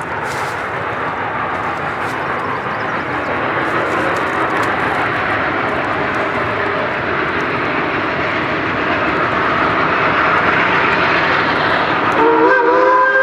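Geared steam logging locomotive working, a steady rush of exhaust and steam that grows louder as it approaches. Near the end its steam whistle starts, a chord of several steady tones.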